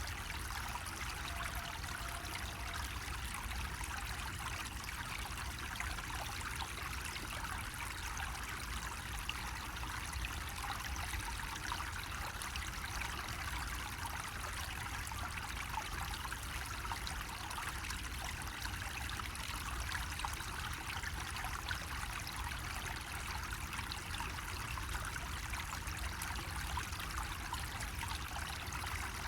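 Water running steadily from a bamboo faucet, an even trickling pour with no breaks.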